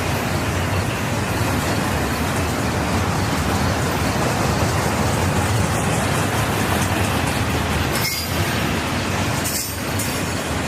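Freight train rolling past, a steady noise of its wheels on the rails.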